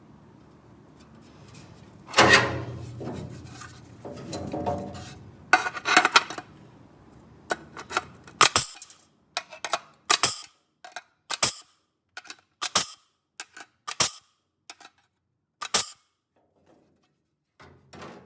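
Hand tools and sheet-metal parts clinking and scraping against metal, then about six sharp metallic taps spaced a second or more apart.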